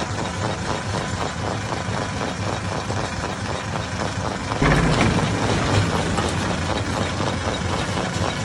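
Hammer-type stone crusher running with a steady, rapid knocking rattle. About four and a half seconds in it turns suddenly louder and heavier.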